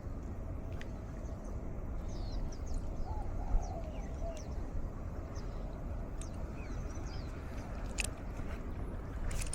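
Wild birds chirping in the mangroves over a steady rumble of breeze on the microphone, with a few sharp clicks about eight seconds in.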